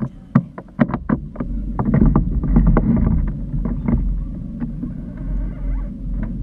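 Aboard a small boat: a quick series of knocks and clunks, then a steady low rumble that sets in about a second and a half in and runs on.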